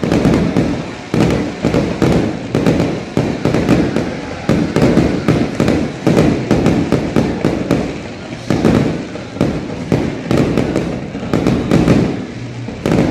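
Aerial fireworks going off in a rapid, continuous barrage of bangs and crackles, several bursts a second.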